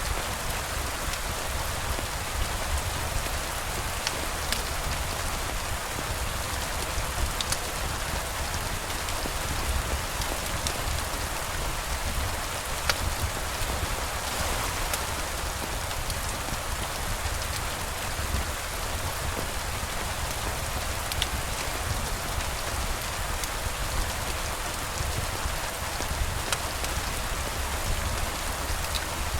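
Steady rain falling without a break, with a low rumble underneath and a few faint sharp ticks now and then.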